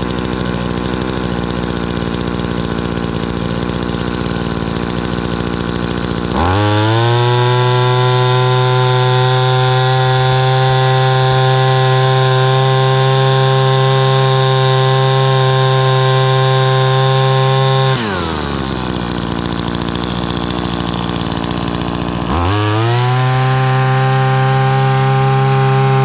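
Mitsubishi T140 two-stroke strimmer engine running with the choke off after a cold start: idling, then revved up to full throttle about six seconds in and held there for around twelve seconds, dropping back to idle, then revved up again near the end.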